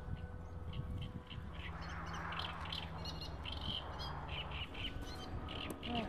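Birds calling in many short, irregular chirps, over a steady low rumble of wind on the microphone.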